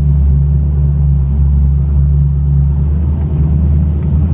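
Cammed 5.0-litre (302) Ford V8 of a 1993 Mustang GT, with a B303 cam and Magnaflow exhaust, running with a steady low drone, heard from inside the cabin. About three seconds in the drone turns choppier.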